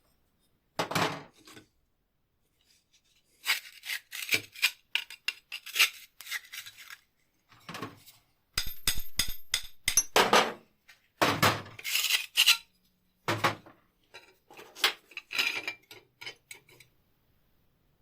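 Metal tool parts being handled and worked on a bench: a series of clinks, knocks and scrapes, with a quick run of evenly spaced clicks about halfway through.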